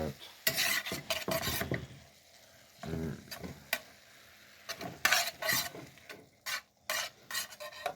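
Chicken frying in a pan and being stirred, sizzling and scraping in irregular bursts.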